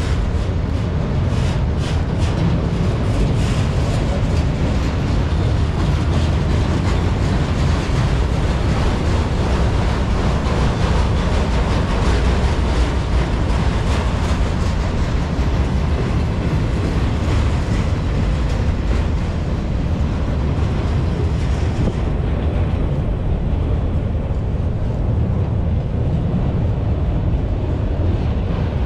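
Freight train rolling past, a steady low rumble of cars on the rails with a few faint clicks early on; the higher hiss drops away about three-quarters of the way through.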